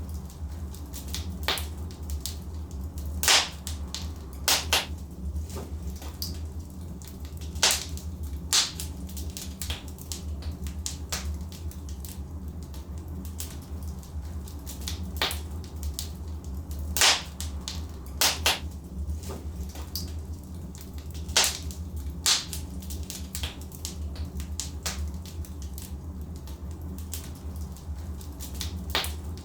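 Wood fire burning in a fireplace, with sharp irregular crackles and pops from the logs over a steady low rumble of the flames.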